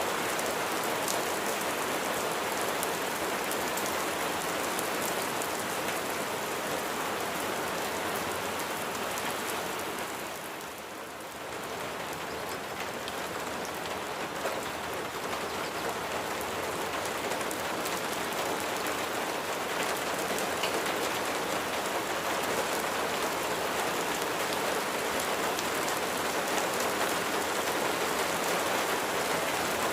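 Steady rain falling, a dense even hiss of raindrops, which briefly eases about ten seconds in and then builds back up.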